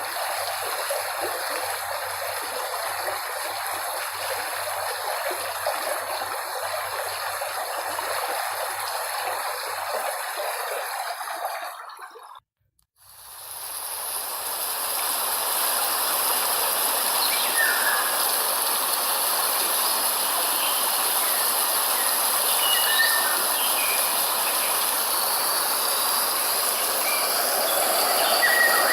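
Steady rushing of a stream's running water, which fades out about twelve seconds in. After a moment of silence a different steady hissing noise fades in, with a few faint short chirps over it.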